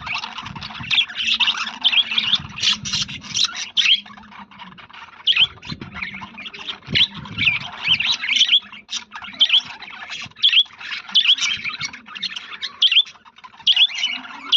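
A small flock of budgerigars chattering, with many quick high chirps and warbles overlapping continuously.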